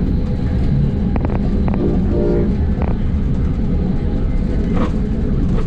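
Moving NJ Transit commuter train heard from inside the passenger car: a steady low rumble with scattered sharp clicks of the wheels running over the track.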